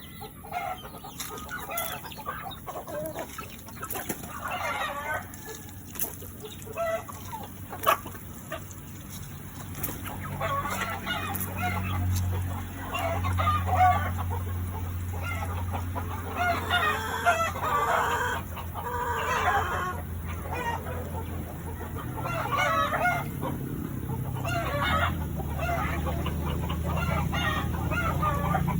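Chickens clucking, with rooster crows among the calls, in repeated bursts. A low steady hum runs beneath them for parts of the time.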